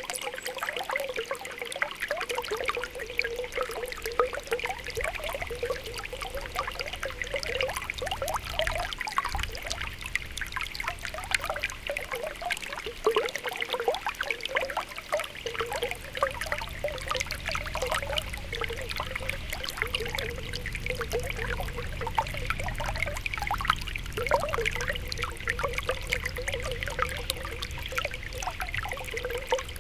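Spring water welling up from the ground, bubbling and popping continuously with small gurgles and trickling.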